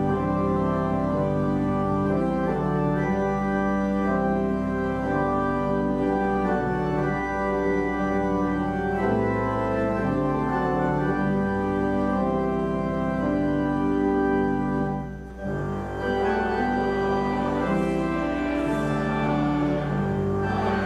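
Organ playing held chords that change every second or so, with a short break about fifteen seconds in before the playing resumes.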